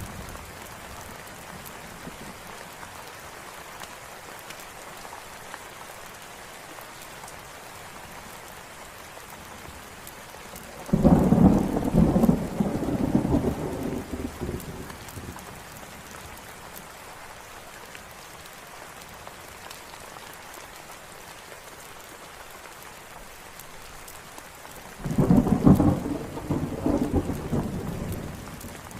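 Steady rain falling, with two rolls of thunder about a dozen seconds apart, each starting suddenly and rumbling off over a few seconds.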